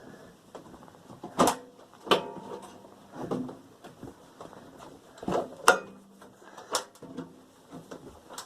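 Knocks and clatter of a microwave's sheet-metal casing and parts being handled during dismantling, about six sharp knocks, some leaving a short metallic ring.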